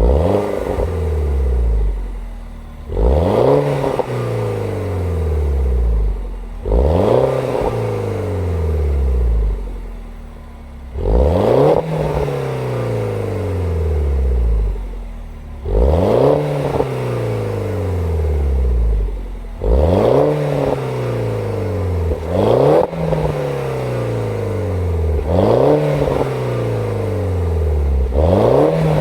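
Exhaust of a 2007 MINI Cooper S R56 with the turbocharged 1.6-litre N14 four-cylinder, revved about eight times. Each rev climbs quickly and then falls slowly back toward idle.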